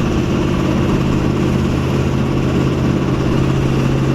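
Ford 4.6-litre V8 in a New Edge Mustang running under way with a heavy rod knock: rod bearings failing after overheating and a blown head gasket, the engine close to letting go.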